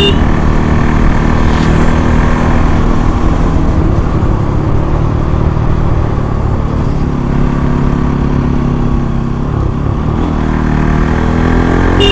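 Bajaj Pulsar NS200's single-cylinder engine running hard under load while being ridden. The pitch eases off about nine seconds in, then climbs steadily as the bike accelerates again near the end.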